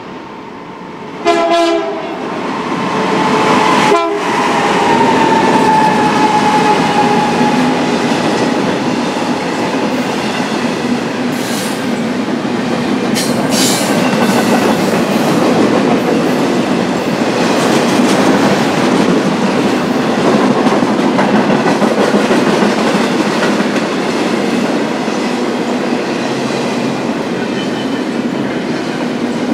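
BNSF freight train: a short blast of the locomotive horn about a second in, then the train passing with a falling tone as the locomotive goes by. Steel wheels clack and rumble steadily as the cars roll past.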